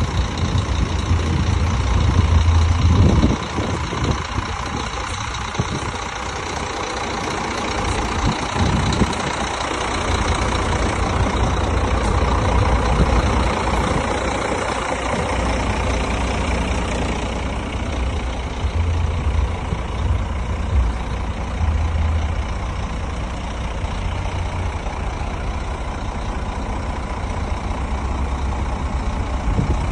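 Scania P360 truck's 13-litre six-cylinder diesel engine idling steadily, a little louder for a moment about two to three seconds in.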